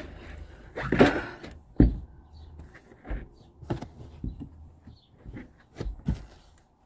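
Irregular knocks and clunks of hard objects being handled, about seven short hits spread over several seconds, the loudest about a second in.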